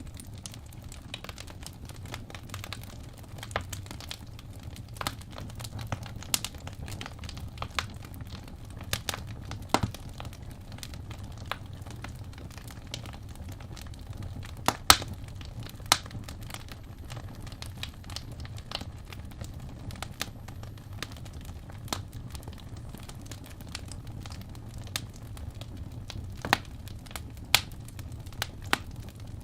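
Wood fire crackling in a fireplace: irregular sharp pops and snaps over a steady low rumble, with two louder pops about halfway through.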